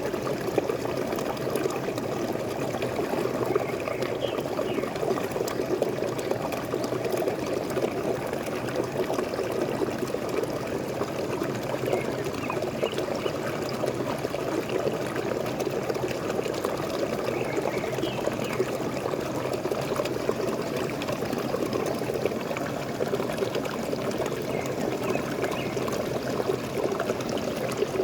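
Waterfall splashing and pouring steadily, with faint short bird chirps now and then.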